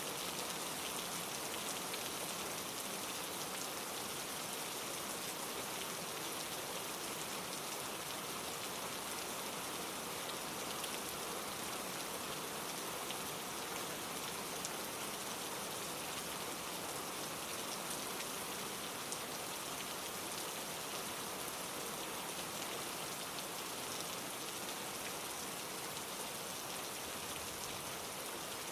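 Steady rain falling on leaves, a constant hiss dotted with many small drop ticks.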